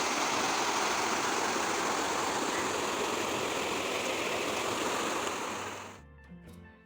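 Steady rushing water noise, even and unbroken, fading away about five and a half seconds in; background music starts just after.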